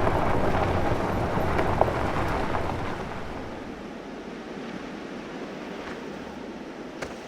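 A motor vehicle's rushing road and wind noise. It starts abruptly, is loudest for about the first three seconds, then fades to a lower steady rush.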